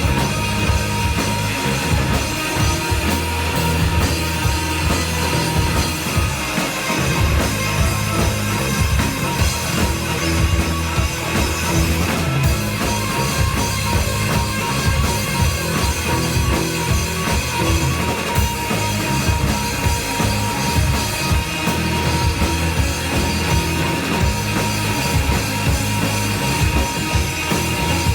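Live rock band playing an instrumental passage: distorted guitars, bass and a drum kit at a steady loud level.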